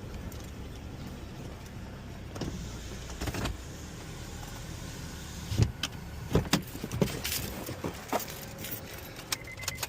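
Car moving slowly, heard from inside the cabin: a steady low rumble, then a string of sharp clicks and knocks starting about five and a half seconds in.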